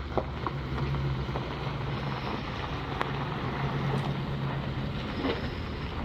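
Ford E350 box truck engine idling steadily, with a few light clicks.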